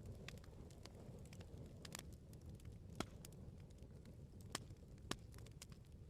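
Wood campfire crackling: many small irregular pops and snaps over a low steady rumble of the flames, with three louder pops about three, four and a half and five seconds in.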